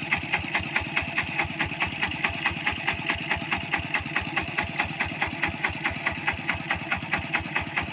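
Small engine of a rice-paddy hand tractor running steadily with an even chugging beat, about five beats a second.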